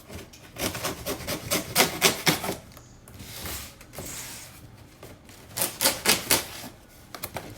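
A cardboard box being opened by hand: two bouts of quick, sharp crackling and tearing from the packaging, with quieter handling noise between.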